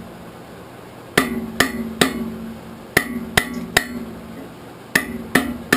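Blacksmith's hammer striking steel on an anvil: three groups of three quick blows about a second apart, with the anvil ringing on between strikes.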